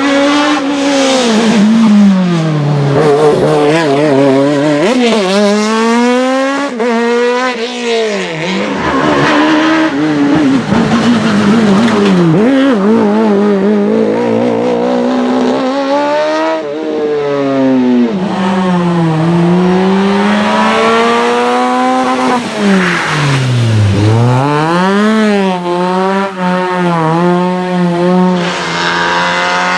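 A race car's engine revving hard through a slalom course, its pitch climbing under flat-out acceleration and dropping on each lift and downshift, over and over, with tyres squealing in the turns.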